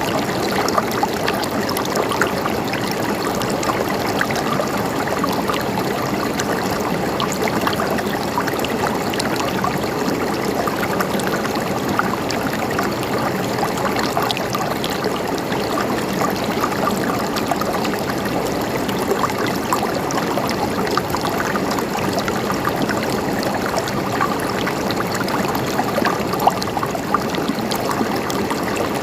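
River water flowing and gurgling steadily over stones, a continuous rush full of small splashes and trickles.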